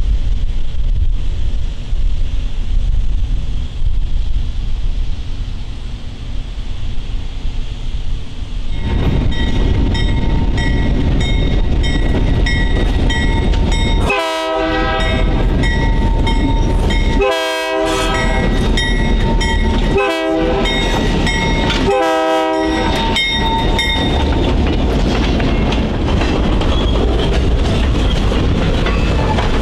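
Diesel freight locomotive approaching, with a bell ringing, and sounding its horn in the grade-crossing pattern: two long blasts, one short, one long. Then the boxcars roll past with a steady rumble and clickety-clack of wheels over rough, worn track.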